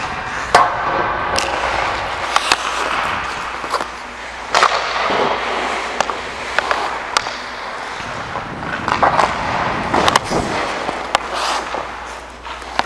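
Ice hockey play: skate blades scraping and carving on the ice, with sharp clacks of sticks and puck striking many times.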